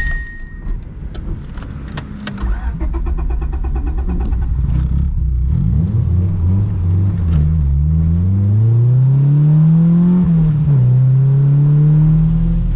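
Honda Civic's four-cylinder engine accelerating, rising in pitch through one gear with an upshift about ten seconds in, then climbing again. A few sharp clicks and knocks come first.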